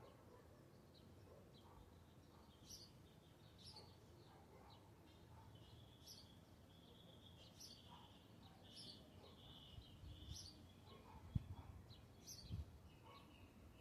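Faint birdsong: short, sharp high calls repeated every second or two over softer twittering. A brief low thump comes about eleven seconds in.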